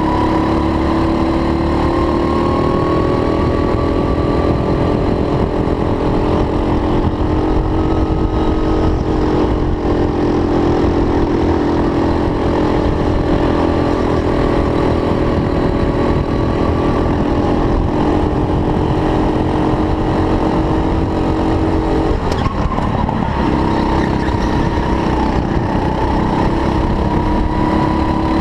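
Racing kart engine running steadily at speed, its pitch rising and falling gently, with a brief knock about 22 seconds in.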